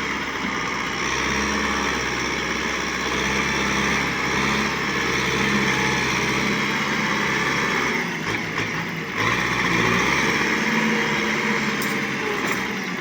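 Tractor engine running steadily, with a brief dip in level about eight seconds in.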